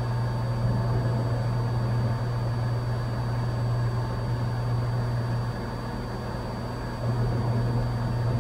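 Cessna 182's engine and propeller droning steadily at cruise power, heard from inside the cabin as a low, even hum, dipping slightly quieter for a second or so past the middle. A faint steady high-pitched whine sits above it.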